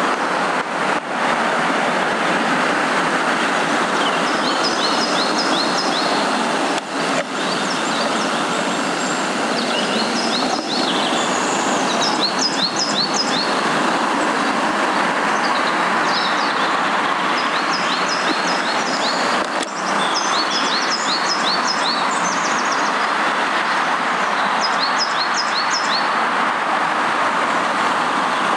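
Songbirds singing in short phrases of quick downward-sweeping high notes, repeated every few seconds, over a loud, steady rushing noise.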